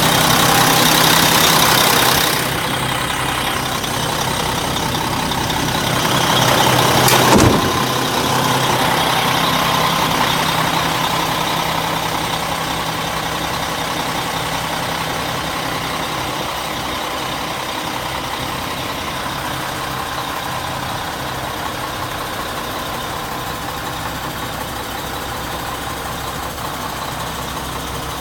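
Mack RD690S truck's diesel engine idling steadily. A hiss sits over it for the first two seconds and stops suddenly, and a single sharp knock comes about seven seconds in.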